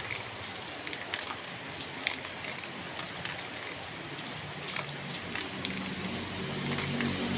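Rain falling on a plastic tarp sheet: a steady hiss of rain with scattered sharper ticks of single drops striking the plastic.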